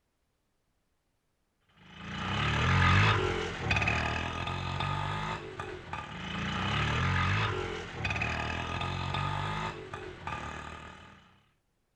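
Indian auto rickshaw engine running with a rattling body, swelling and easing off twice. It starts about two seconds in and fades out near the end.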